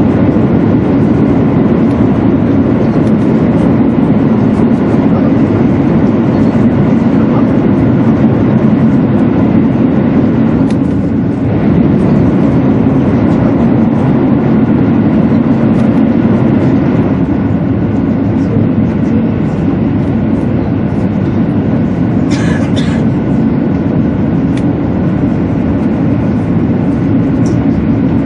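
200 series Shinkansen running at speed, heard inside the passenger cabin: a loud, steady low rumble of wheels and air, as the train runs through a tunnel. There is a brief dip about a third of the way in and a short hiss about three quarters of the way through.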